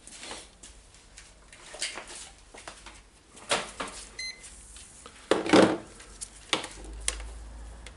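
Clicks, knocks and clatter of plastic parts and tools being handled while the radio's fuse is checked, loudest a little after halfway. About four seconds in, a multimeter gives a brief continuity beep.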